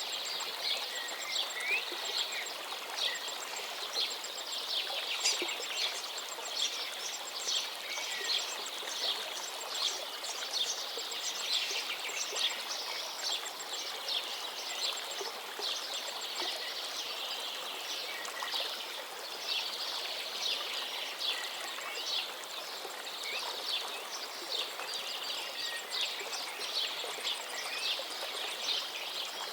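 Many small birds chirping and singing in quick, overlapping calls over the steady rush of a flowing stream.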